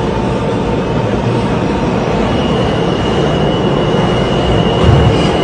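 R160 subway train running along the track: a loud, steady rumble with a thin, high steady whine setting in about two seconds in, and a brief low thump near the end.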